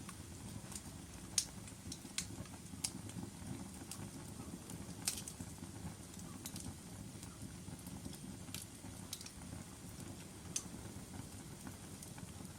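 Wood fire burning in a fireplace: a steady low rumble of flames with scattered sharp crackles and pops from the burning logs, about one a second.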